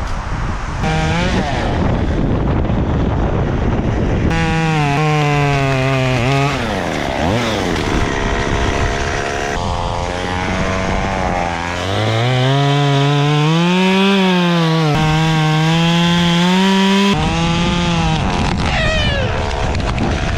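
Chainsaw cutting pine wood, its engine pitch dropping and climbing again and again as it bogs under load and revs free.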